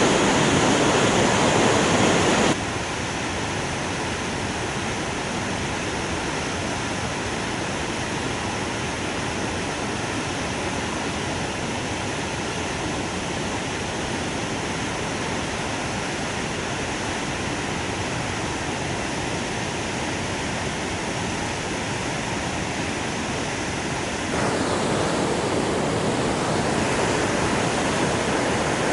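Steady rushing of a waterfall running in high flow after very heavy rain. The level drops suddenly about two and a half seconds in and jumps back up a few seconds before the end.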